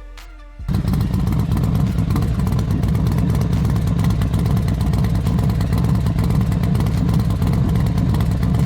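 A loud engine or motor running steadily with a rapid pulsing chug. It starts abruptly under a second in and cuts off abruptly at the end.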